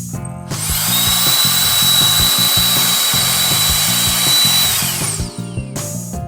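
Handheld mini jet fan (COLBOR AirMaxx A1 blower) spinning up with a quickly rising whine. It runs at full speed with a steady high-pitched whine and a rush of air for about four seconds, then winds down to a stop.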